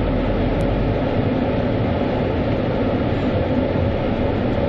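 Steady mechanical rumble and hiss of car wash machinery, with a low hum that drops out about a second in.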